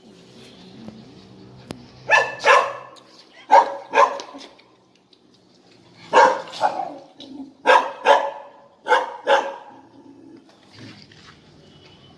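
Small dog barking repeatedly, mostly in quick pairs of sharp barks, about ten barks in all, starting about two seconds in.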